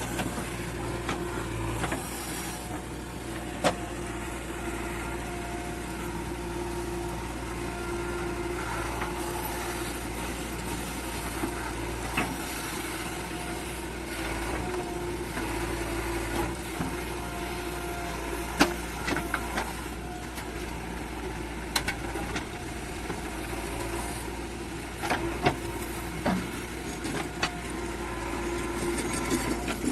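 JCB 3DX backhoe loader's diesel engine running steadily, with a few short, sharp knocks scattered through.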